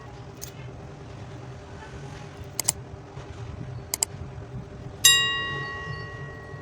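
A single bright metallic ring, struck about five seconds in and fading over about a second and a half, like a metal object hit or dropped on a hard surface. Before it come two pairs of short, sharp clicks.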